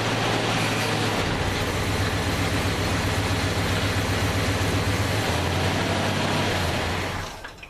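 1968 Plymouth Fury's 383 big-block V8 running steadily, its note shifting slightly a couple of times, then cutting off abruptly shortly before the end.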